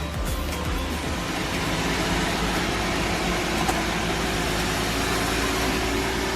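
Lexus IS300's straight-six engine idling steadily.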